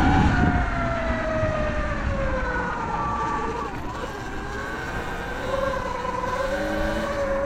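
Surron Light Bee X electric dirt bike's motor whining under way. The whine's pitch jumps up right at the start, then slides slowly down over a few seconds and holds fairly steady near the end, over a low rumble.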